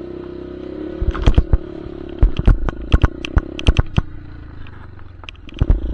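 Dirt bike engine running as the bike is ridden, with many sharp knocks and thumps over it, about two or three a second from about a second in.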